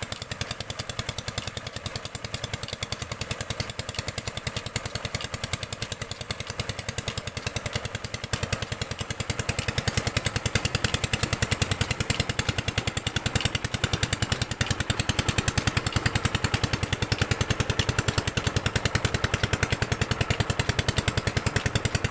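Chinese R180 single-cylinder diesel engine running a tube-well pump, with a rapid, even exhaust beat that grows louder about nine seconds in.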